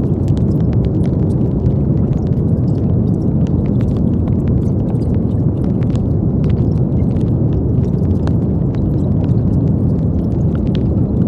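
Steady brown noise: an even, deep rumbling hiss weighted to the low end, with faint scattered ticks above it.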